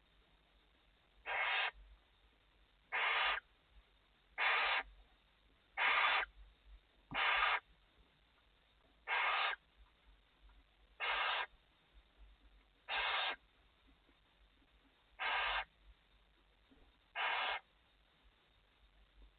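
Barn owl in the nest box giving ten short, harsh, hissing calls, each about half a second long, repeated every one and a half to two seconds.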